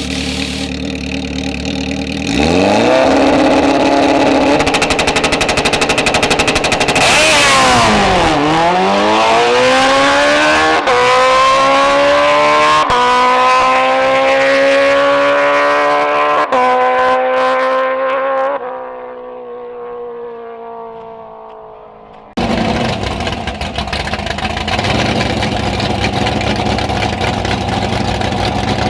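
A drag racing engine revs up and holds high for several seconds, then launches. It accelerates with a rising pitch through three gear changes and fades away down the strip. Near the end another engine is heard running close by.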